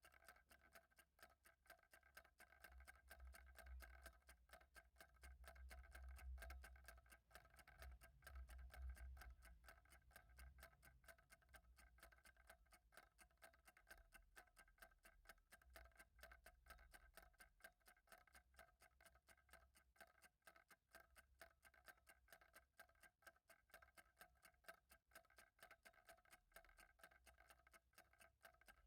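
Faint, steady ticking of a clock, with a low rumble that rises and falls underneath.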